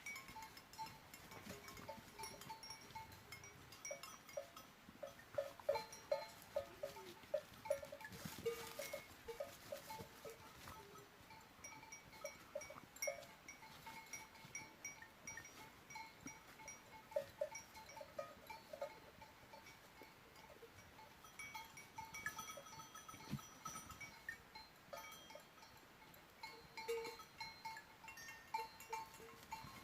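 Several small metal bells clanking irregularly at a few different pitches, busiest and loudest about six to nine seconds in.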